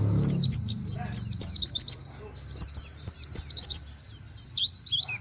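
A white-eye (pleci) sings a fast, continuous run of short, high chirps, most of them sweeping downward, with canary-like 'wit wit' phrases mixed in. There is a brief lull about two seconds in.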